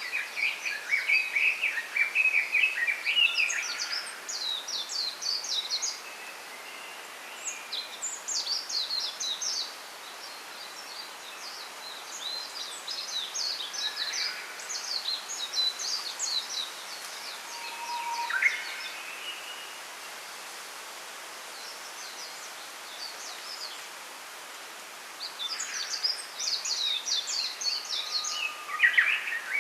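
Small songbirds singing in a bamboo grove: phrases of rapid, high chirping notes that come and go every few seconds, over a steady background hiss.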